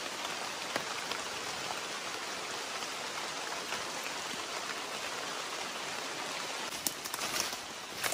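Steady rain falling on rainforest foliage, an even hiss of many drops, with a few short crackles near the end.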